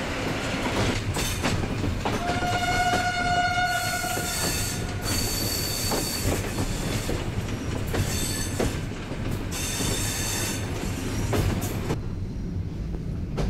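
Train running over the track: a steady rumble with wheels squealing in high screeches several times through curves and points. About two seconds in a steady pitched tone sounds for under two seconds. The squealing stops near the end.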